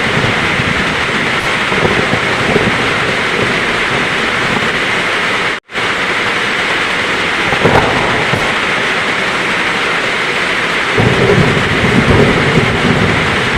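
Heavy rain falling steadily, with thunder rumbling low underneath; the rumble fades about halfway through and swells again near the end. The sound drops out for an instant about six seconds in.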